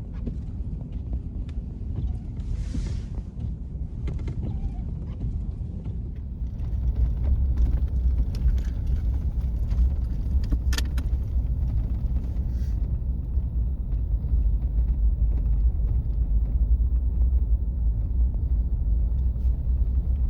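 Car driving on a snow-covered highway, heard from inside the cabin: a steady low rumble of engine and tyres that gets louder about six and a half seconds in.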